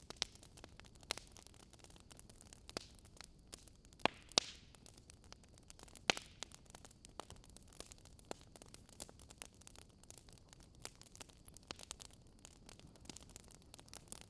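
Wood fire crackling quietly: irregular sharp pops and snaps, a few louder ones, over a faint steady hiss.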